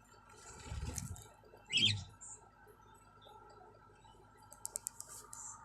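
A pet lovebird gives one short, loud chirp about two seconds in. A dull rumble of handling comes just before it, and a quick run of sharp clicks follows near the end.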